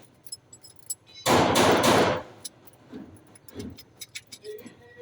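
Hand tools clicking and clinking against metal engine parts during a valve adjustment, with a loud rushing noise lasting about a second, starting about a second in.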